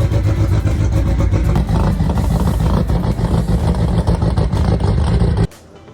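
Drag-racing car engine running very loud, a dense low rumble of rapid firing pulses that cuts off abruptly about five and a half seconds in.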